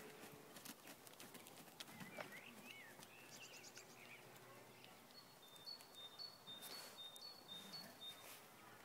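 Near silence: faint birdsong, with a high two-note phrase repeated several times in the second half, and a few faint clicks.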